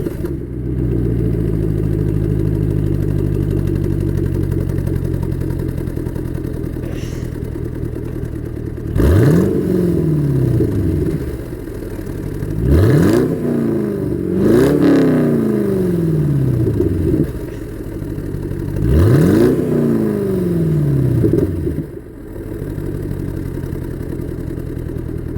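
2011 Chevrolet Camaro SS's 6.2 L L99 V8 idling through an exhaust with the resonators deleted and high-flow catalytic converters. It is revved four times, twice in quick succession, each rev rising sharply and falling slowly back to idle.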